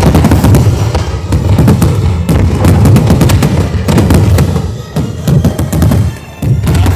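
Fireworks going off in rapid succession: many bangs and crackles close together over a continuous low rumble, briefly thinning near the end.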